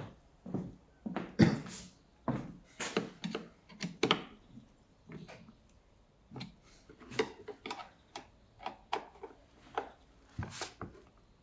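Hard objects being handled: an irregular run of knocks, clicks and short scrapes, the loudest knock about a second and a half in.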